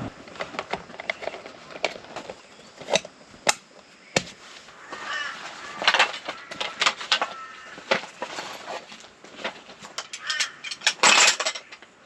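Birds calling in short hoarse calls, mixed with a scatter of sharp clicks and knocks; the busiest, loudest burst comes near the end.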